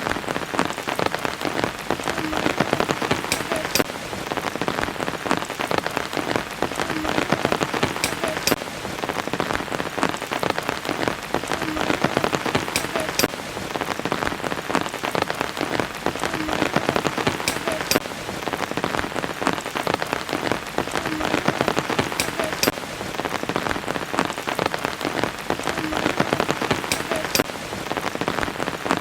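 Steady rain falling on leaves and surfaces, a dense hiss of drops with many sharp individual drips and ticks throughout.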